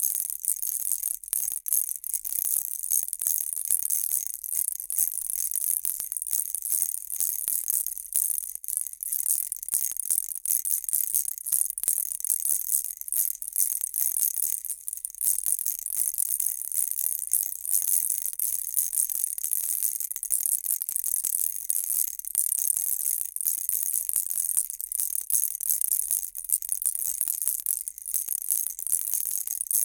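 Baby rattle shaken continuously: a dense, high-pitched rattling of many small clicks that keeps on without a break.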